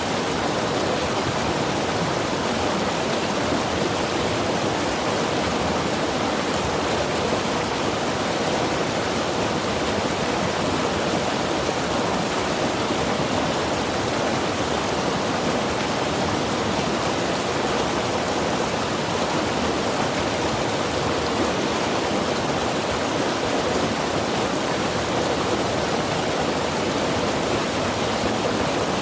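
Mountain river rushing steadily over rocks, a constant even roar of moving water with no changes.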